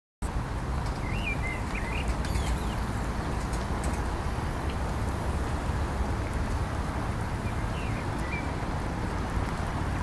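A songbird singing short chirping phrases, once about a second in and again near the end, over a steady low rumble of city traffic.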